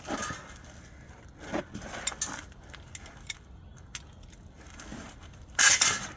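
Metal hand tools and hardware clinking and scraping while a steering rack is worked into place, with scattered sharp clicks and a louder rattling clatter near the end.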